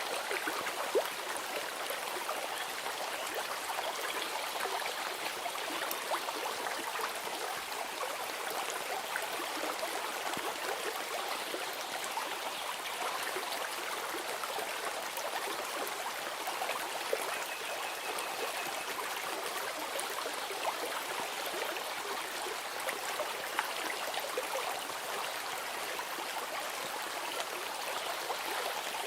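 A flowing stream, its running water making a steady sound.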